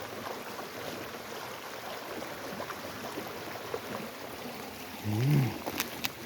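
Water running steadily, a stream or trickle. About five seconds in there is a brief low voice-like sound, and a few sharp clicks follow near the end.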